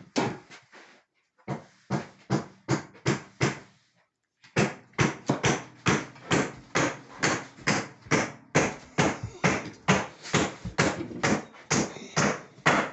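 Sharp knocks on a hard surface, repeated about three times a second, with two short pauses in the first half.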